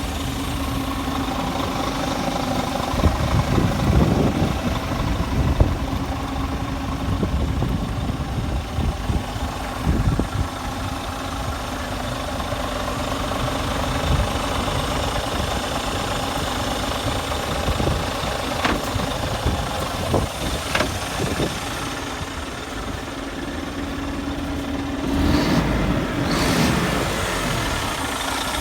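Scania truck tractor's diesel engine idling steadily, picking up briefly twice: a few seconds in and again near the end. A couple of sharp clicks sound over the idle past the middle.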